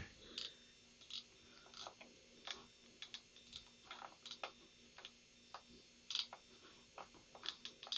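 Faint, irregular clicking of a computer mouse and keyboard, a dozen or so scattered clicks and taps.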